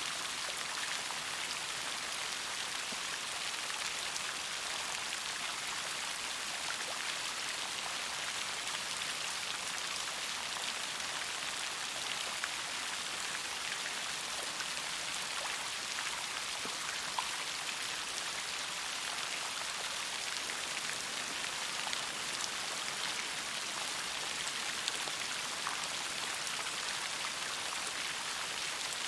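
Steady rain: an even hiss of falling rain, with now and then a single drop ticking a little louder.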